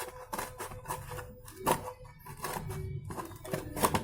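Scissors snipping through a thin cardboard toothpaste carton: an irregular run of sharp clicks and crunches, two of them louder, the first in the middle and the second near the end.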